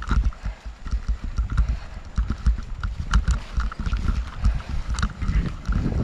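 Strong wind buffeting the microphone in an uneven, gusting low rumble, with scattered sharp clicks and rattles.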